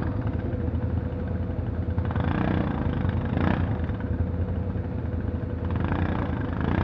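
ATV (quad bike) engine running steadily at low revs while crawling off-road.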